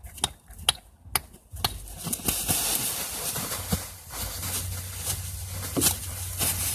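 A few sharp knocks, then a freshly beheaded rooster thrashing and flapping its wings: a continuous rustling scuffle, its death throes.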